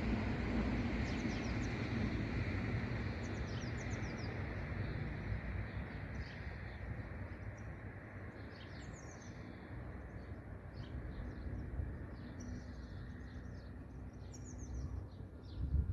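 Small birds chirping and calling again and again, more often in the second half, over a low rushing noise that slowly fades.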